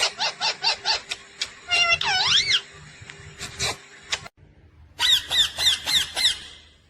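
Ringneck parrot calling in a quick run of high, shrill, arched squawks, with a warbling call about two seconds in. After a brief gap comes a second run of about six squawks.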